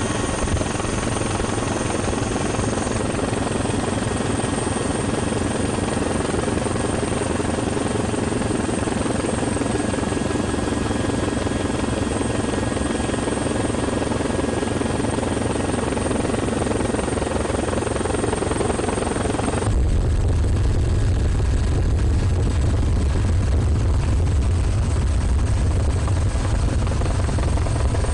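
Helicopter engine and rotor noise, steady and loud. About twenty seconds in it changes abruptly to a deeper, louder rumble.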